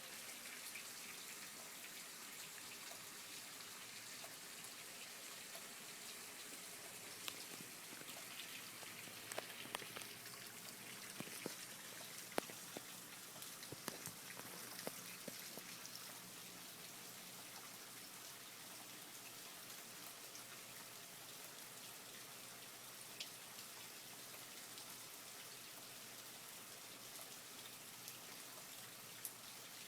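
Light rain falling: a steady patter and hiss, with scattered sharper drips, most of them between about 7 and 16 seconds in.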